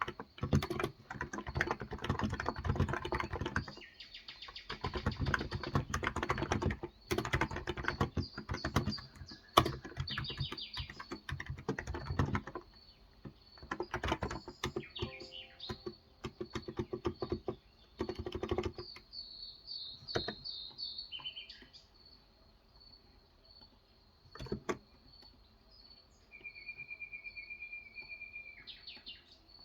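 Typing on a Cox Endeavor electro-capacitive tenkeyless keyboard with 35 g switches, in fast runs of keystrokes that thin out to a few scattered presses after about the halfway point. In the quieter second half, birds chirp, and near the end one gives a short steady trill.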